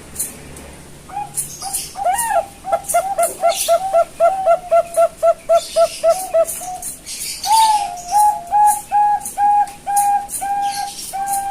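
Young Bangkok-type zebra dove (perkutut) cooing: a quick run of about a dozen short, clipped coos, then after a brief pause a slower series of longer, level coos. Short high ticks sound throughout.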